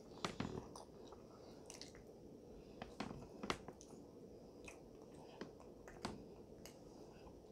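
Mouth sounds of a person eating a croque-madame sandwich with béchamel and smoked gouda, its bread gone soft: faint wet chewing with scattered lip smacks and clicks. The sharpest smacks come about a quarter second in, around three seconds in, and about six seconds in.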